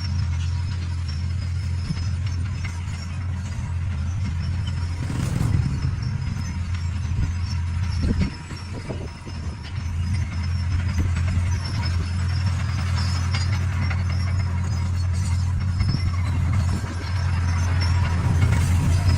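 D41 bulldozer's diesel engine running steadily under work, with clatter from the machine, dipping briefly about eight seconds in.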